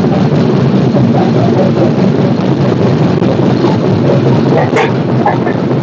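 Steady rumble of a moving passenger train heard from inside the coach, with a brief high-pitched squeak near the end.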